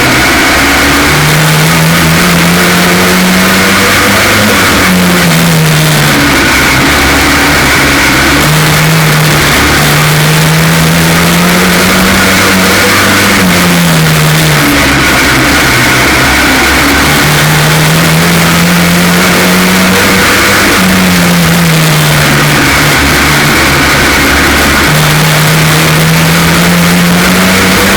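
F2 stock car engine racing around a short oval, its note climbing for several seconds and then dropping sharply, about every eight seconds. The engine is running with a misfire from a cracked spark plug.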